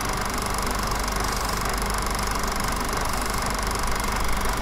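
Car engine running steadily, heard from inside the car, under a constant hiss.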